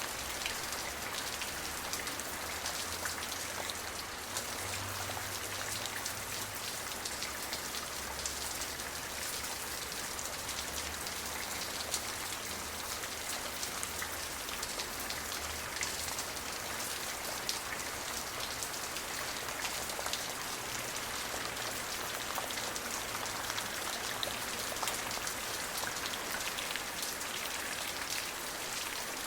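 Steady rain falling on a hard surface, an even hiss with many fine drop ticks.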